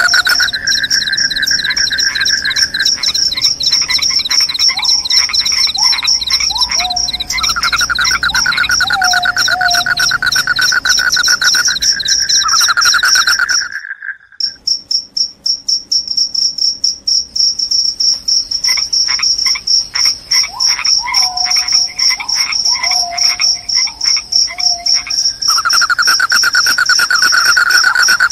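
Crickets chirping in a continuous high, fast-pulsing trill, with a second lower trill that stops and starts. Short falling chirps sound in small runs twice. Everything drops out for a moment about halfway through.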